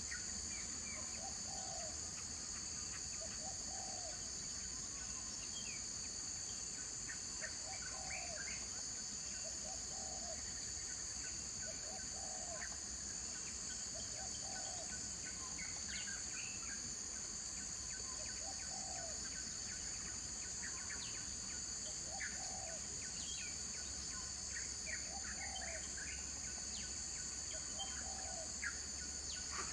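Steady high-pitched insect drone, with a short low call repeated about every two seconds and scattered brief bird chirps.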